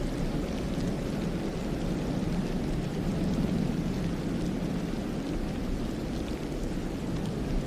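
Wind blowing steadily through a snowy pine forest: a low, even rush that swells a little and eases off, with a few faint ticks scattered through it.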